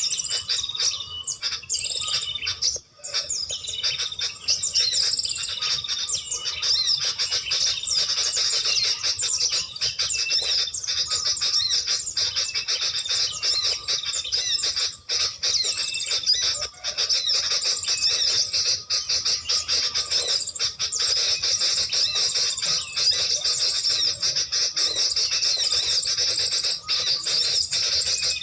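Many small songbirds chirping and trilling at once in a dense, continuous high-pitched chatter, with a brief lull about three seconds in.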